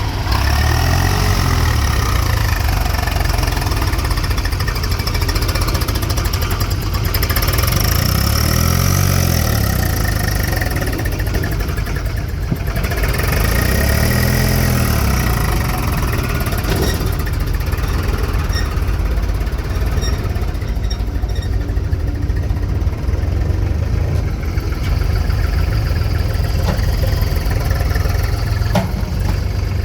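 Diesel engines of a tractor and a JCB backhoe loader running during sand loading. The engine note rises and falls back three times, near the start and twice in the middle, as an engine revs under load.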